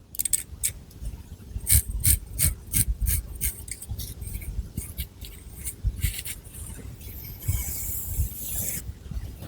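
Long fingernails scratching through thick long hair at the scalp in short quick strokes, about two or three a second, then a longer rustling rub of the hair near the end.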